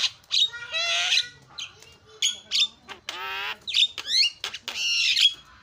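Javan myna (jalak kebo) calling: a rapid string of varied harsh squawks, buzzy wavering chatters and steep downward-sweeping whistles, with short gaps between them.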